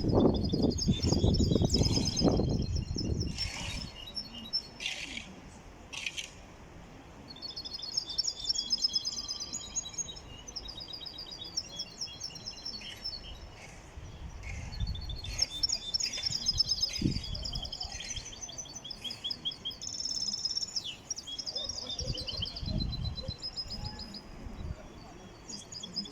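A caged goldfinch-type finch singing: phrases of fast, high twittering trills, repeated with short pauses between them. A loud low rumble sits under the song for the first few seconds.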